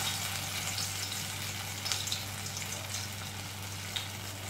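Chana saag pakora batter sizzling in hot oil in a kadhai as patties are pressed in by hand: a steady hiss with scattered crackles, a little sharper about two seconds in and near the end.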